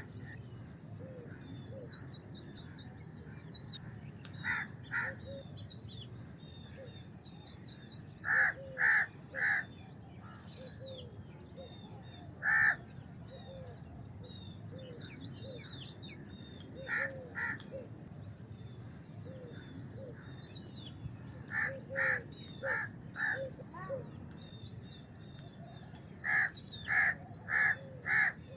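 House crows cawing in short series of one to five harsh caws, with gaps of a few seconds between the series. Small birds twitter and chirp continuously in the background.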